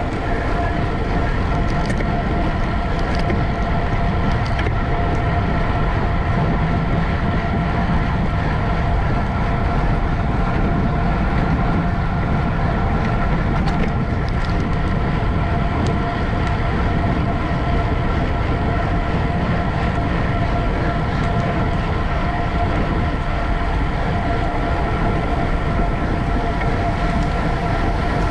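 A steady, unbroken rumble of wind and rolling noise, with a constant whine running through it.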